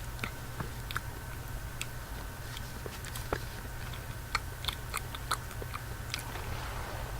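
Close-miked chewing of chocolate, with many small wet mouth clicks and crunches scattered through, over a steady low background hum.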